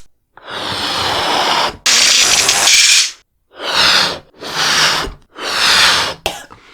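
A rubber balloon being blown up: air rushes into it in a series of hissing puffs, two long ones and then three shorter ones with brief pauses between.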